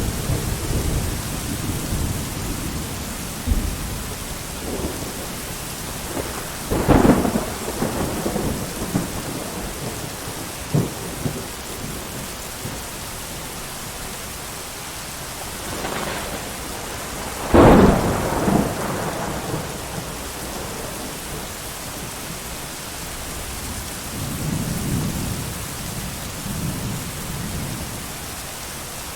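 Steady heavy rain with thunder. A sharp crack comes about seven seconds in and a louder one a little past halfway, each trailing off into rumbling, with softer low rumbles near the start and toward the end.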